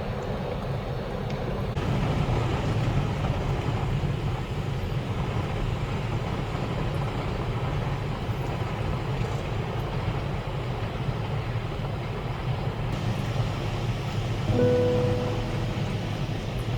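Steady roar of typhoon wind and rain against a small truck camper. About three-quarters of the way through, a short pitched tone sounds for about a second.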